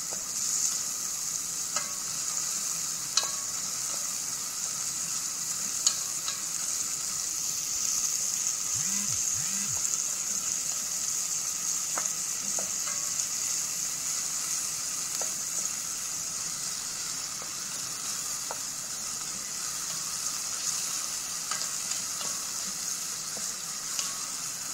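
Onion, garlic and tomato sautéing in hot oil in a pot, a steady sizzle. A few light clicks of a utensil against the pot come as the mix is stirred.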